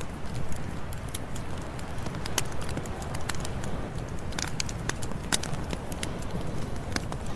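Campfire burning: a steady low rush of flames with frequent, irregular sharp crackles and pops from the burning wood.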